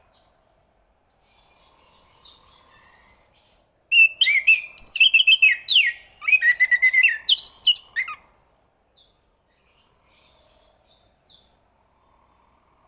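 Chestnut-capped thrush singing: a loud song phrase of rapid, varied whistled and chirping notes starts about four seconds in and lasts about four seconds, with a short break midway. A few faint notes come before and after it.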